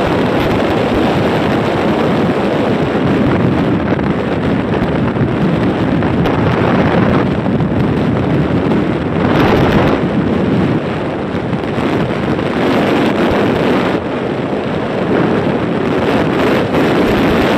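Heavy wind rushing over the microphone of a moving bike, a steady, loud noise mixed with the rumble of the ride.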